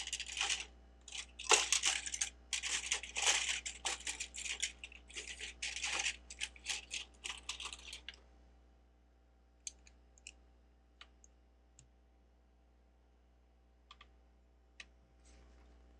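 Loose plastic Lego bricks clattering and clicking as hands sift through a pile of pieces: a dense run for about eight seconds, then a few single clicks.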